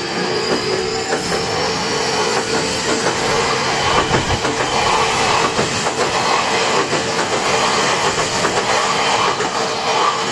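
Odakyu Electric Railway electric train passing over a level crossing, wheels clattering over the rail joints in a dense run of clicks, with a steady tone held throughout.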